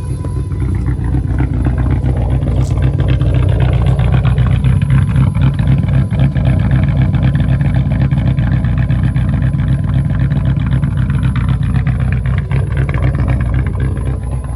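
1998 Jaguar XJR's 4.0-litre V8 running with its supercharger and intercooler removed. It comes up in revs over the first two seconds, holds, and eases back near the end, with a loud whistle over the engine note.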